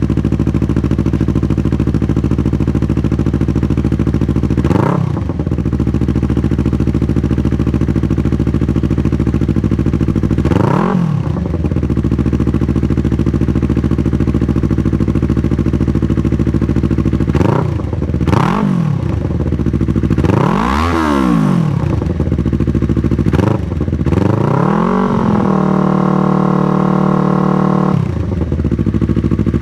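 2019 Yamaha R3's parallel-twin engine, breathing through a Toce full exhaust with its decibel-killer insert fitted, idling steadily and blipped sharply several times: single revs about 5 and 11 seconds in, a cluster of blips between about 17 and 25 seconds, then held at higher revs for a couple of seconds before it drops back to idle.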